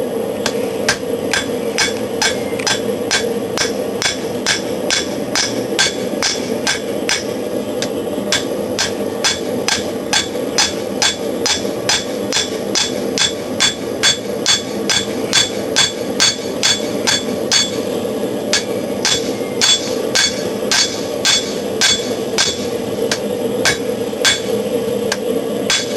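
Hammer blows on hot steel against an anvil, a steady rhythm of about two ringing strikes a second, drawing out the tang of a hunting knife blade. Under them runs the steady noise of the forced-air forge.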